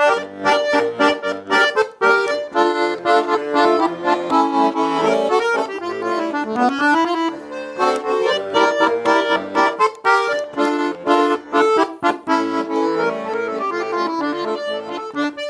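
Russian garmon (button accordion) playing the instrumental introduction to a song: a melody in chords over a pulsing bass accompaniment.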